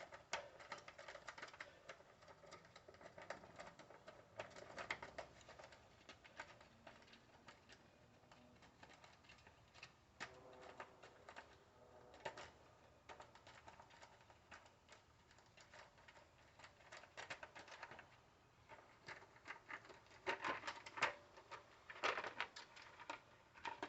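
Faint, irregular clicking and tapping of hand tools and small metal parts as a small engine's carburetor is worked on and taken apart, busier near the end.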